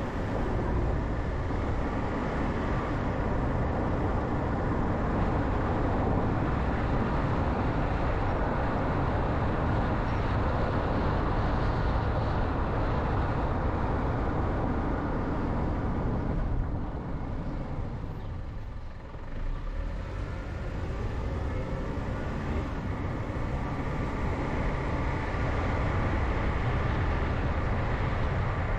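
Steady road noise of a car driving, the rumble of tyres and engine, which dips briefly about two-thirds of the way through before picking up again.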